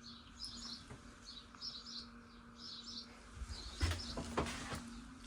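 Small birds chirping in short repeated bursts, about one to two a second, over a faint steady hum, with a few soft knocks about four seconds in.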